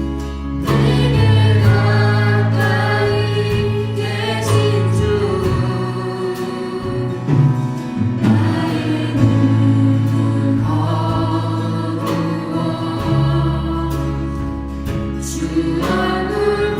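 A church praise band and worship team singing a gospel praise song, with sung voices over a sustained bass line and regular drum and cymbal hits.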